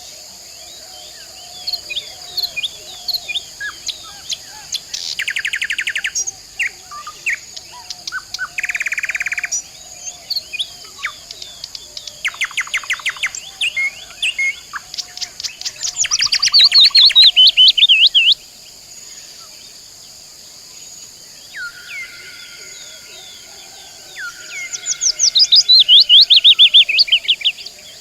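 Several songbirds singing: short chirps and fast, loud trills, over a steady high hum of insects.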